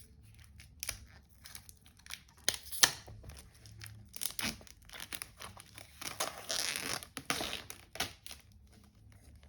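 Plastic shrink wrap being torn and peeled off a hardcover sticker album, crinkling and crackling irregularly with sharp snaps, and a longer stretch of crinkling about six to seven and a half seconds in.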